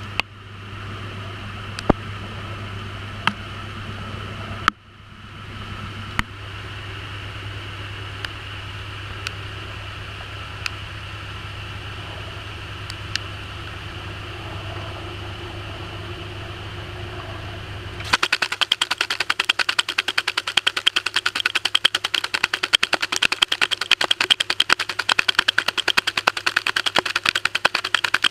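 Maytag washing machine running, heard from inside the tub: a steady low hum with occasional sharp clicks and a brief dip about five seconds in. About two-thirds of the way through the hum drops away and a rapid, dense rattling of clicks takes over.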